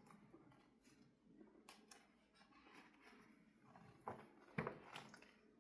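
Near silence with faint rustling and a few soft clicks, typical of a picture book's paper pages being handled and turned.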